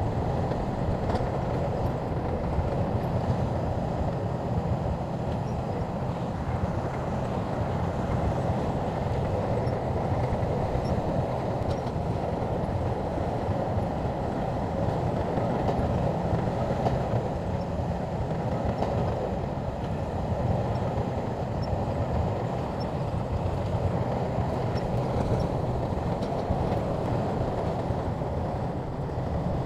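Shantui crawler bulldozer's diesel engine running steadily with a continuous low mechanical rumble as the machine works.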